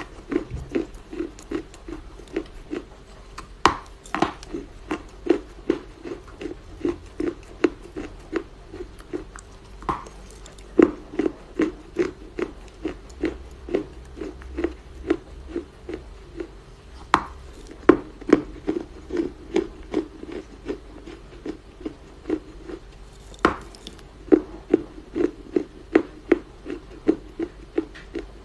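Close-up chewing of soft Chinese loess: steady, even crunches about twice a second, with a few sharper, louder crunches now and then.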